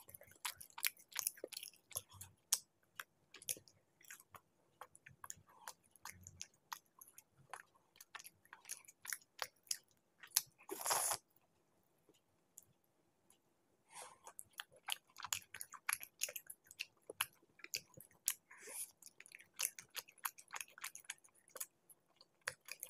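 Close-miked wet chewing and mouth clicks of someone eating chicken masala and laccha paratha by hand. There is a louder half-second sound about halfway through, then a pause of about two seconds before the chewing picks up again.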